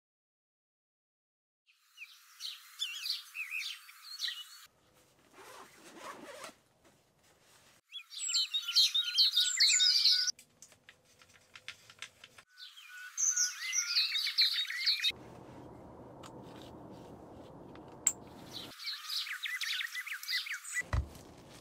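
Dense bird chirping and twittering in several bursts, each cutting in and out abruptly, with quieter stretches of steady low noise between them. A single low thump comes near the end.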